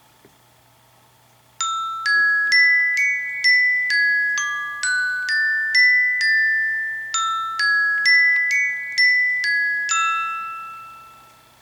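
An iOS 7 preset ringtone playing on an iPod touch: a melody of about twenty bright, bell-like notes like a glockenspiel. It starts about a second and a half in and rings away to nothing near the end.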